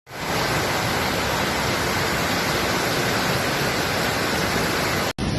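Steady, even rushing of water, with no rhythm or pitch, cutting off abruptly near the end.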